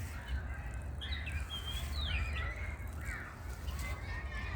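Birds calling in short chirps and quick falling whistles, several in a row from about a second in, over a steady low rumble.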